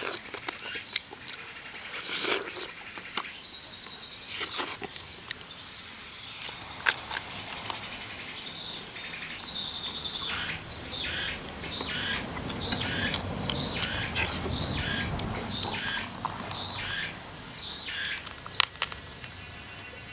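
Close-up eating sounds of someone gnawing meat off a whole braised sauce duck: wet chewing, sucking and lip smacking with many short clicks, busiest in the second half.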